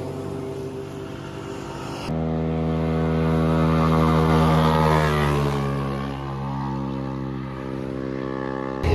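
Sport motorcycle engine running at high revs, its pitch falling about halfway through as it goes past. The sound is broken by abrupt cuts about two seconds in and near the end.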